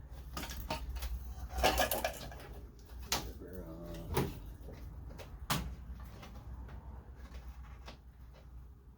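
Scattered light clicks and knocks of car parts and hand tools being handled during disassembly, about four sharp ones spread over several seconds, over a low steady hum.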